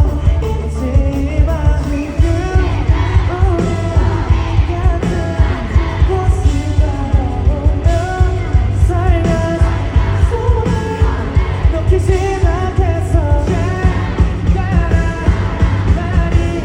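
Live pop-rock band playing loudly with a singer's lead vocal over a steady, driving drum beat.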